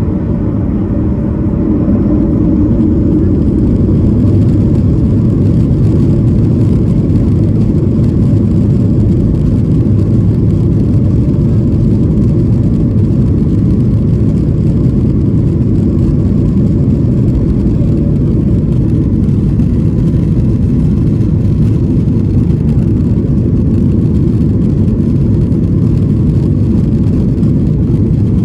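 Boeing 737-800's CFM56 jet engines and airflow, heard from inside the cabin as a loud, steady low rumble that swells about two seconds in and then holds.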